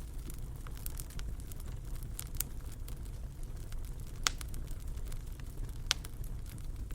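Fire crackling in a fireplace: a steady low rumble with scattered snapping pops, the two sharpest about four and six seconds in.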